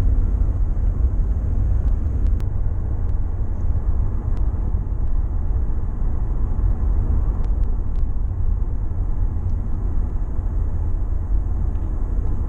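Car driving on a road test: a steady low rumble of road and engine noise.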